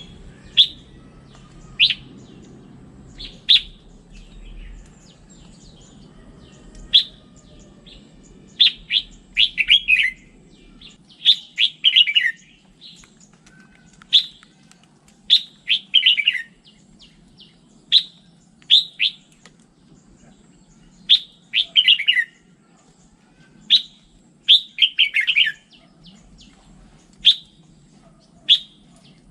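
Red-whiskered bulbul singing: short, sharp single notes alternating with brief clusters of quick notes that fall in pitch, repeated every second or two.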